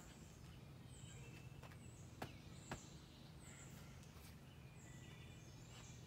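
Faint bird song: short, high, falling chirps repeated roughly every second over a low background hum, with two sharp clicks about half a second apart around two seconds in.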